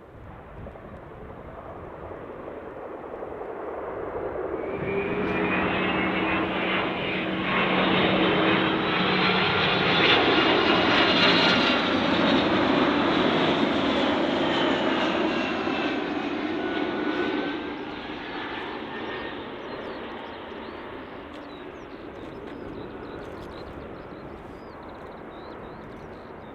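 A jet airliner on short final approach passes overhead with its engines at approach power. The sound builds to its loudest about ten seconds in, its engine whine drops in pitch as it goes by, and it fades away over the last several seconds.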